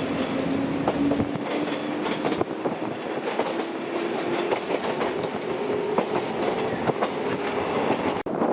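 Former JNR-type electric train running, its wheels clicking over rail joints while a motor whine rises slowly and steadily in pitch as it gathers speed. The sound cuts off abruptly near the end.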